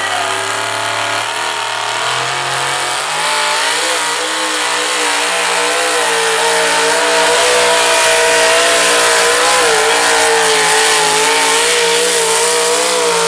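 Pulling vehicle's engine at high revs under heavy load while it drags the sled. The pitch climbs in a few steps over the first three seconds, then holds high and nearly steady.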